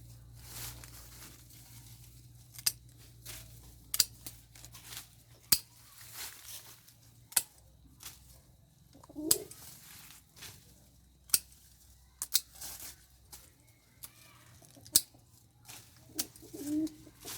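A dozen or so sharp clicks and knocks at irregular intervals, with a short low bird call about nine seconds in and another near the end.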